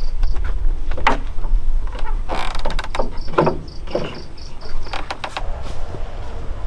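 Several short scraping, rustling strokes over a low rumble, with an insect chirping in a high, even pulse of about four chirps a second that drops out for a while partway through.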